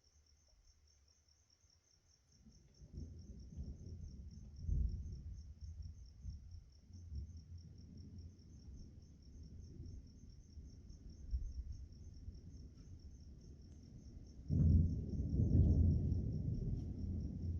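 Thunder rumbling low from about two seconds in, rolling on with swells, then a louder peal breaks in suddenly near the end. Crickets chirp steadily throughout.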